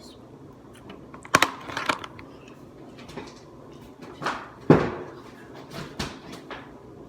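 A handful of sharp knocks and clatters, like objects being handled or set down, at irregular intervals. The two loudest come about a second and a half in and just before the five-second mark.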